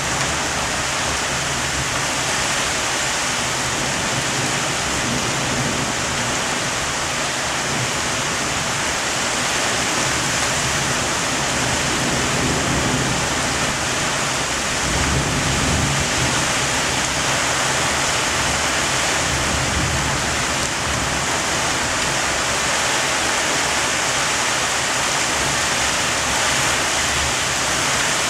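Heavy thunderstorm rain pouring steadily, with a low rumble swelling briefly about halfway through.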